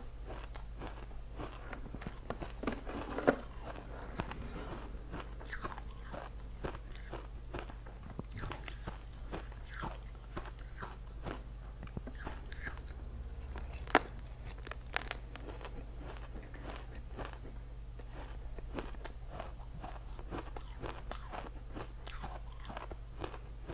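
Ice being bitten and crunched between teeth, in a continuous run of brittle cracks and crackles, with sharper loud snaps at about three seconds and fourteen seconds in.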